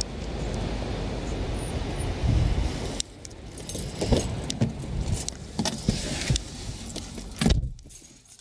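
Wind buffeting the microphone, cut off abruptly about three seconds in, then a run of clicks and knocks as someone gets into a car, ending with a loud thump of the car door shutting near the end.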